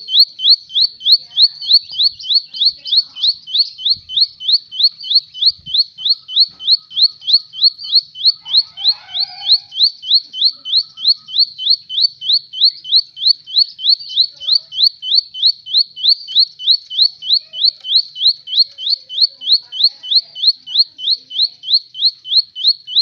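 Plain prinia (ciblek sawah) calling: a long unbroken series of short, high, rising notes repeated evenly at about three or four a second.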